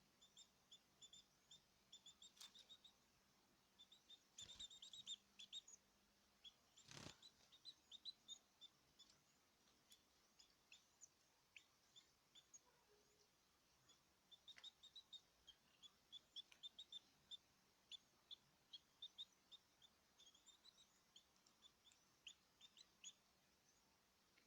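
Caged small birds chirping faintly in quick, short calls, coming in clusters and pauses, with a single sharp knock about seven seconds in.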